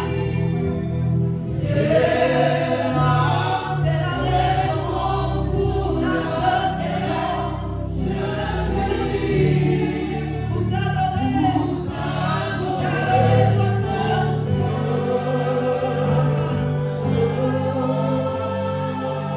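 Gospel worship music: a choir or congregation singing over keyboard and bass accompaniment.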